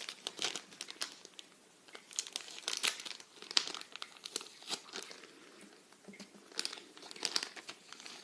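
Crinkling and rustling of packaging being handled, a string of irregular crackles that comes in clusters, with quieter stretches about two seconds and six seconds in.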